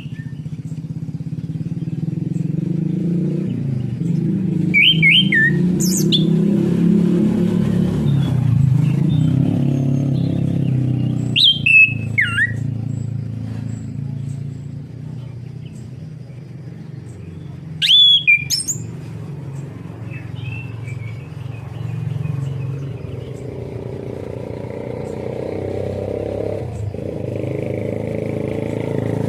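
Orange-headed thrush giving three short, sharp whistled calls that fall in pitch, about six seconds apart. Under them runs a steady low rumble of motor traffic.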